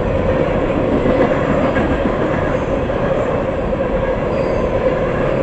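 A freight train of empty tank cars rolling past, its wheels giving a steady loud rumble and clatter over the rails, with a constant high squeal-like tone running through it.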